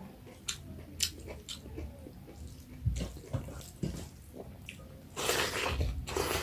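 Close-miked eating sounds of pork curry with mustard greens in broth: chewing with wet mouth clicks, then a loud wet slurp lasting about a second near the end.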